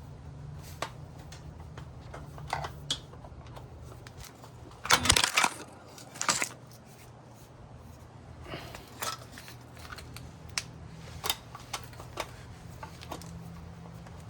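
Scattered metal clicks and clinks of hand tools and bolts being handled while motorcycle wheel bolts are tightened, with a louder rattling clatter about five seconds in and a shorter one a second later. A steady low hum runs underneath.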